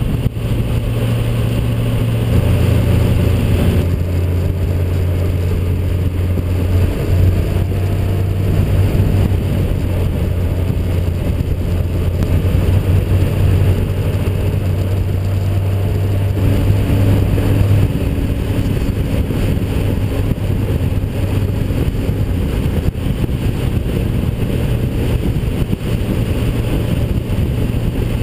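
Yamaha FJR1300's inline-four engine running at cruising speed under a steady rush of wind noise. The engine note holds steady, stepping to a new pitch a few times as the throttle and gears change.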